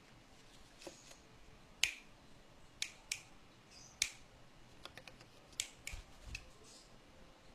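A dozen or so sharp, irregular clicks and taps, the loudest about two seconds in, with faint high chirping sounds between some of them.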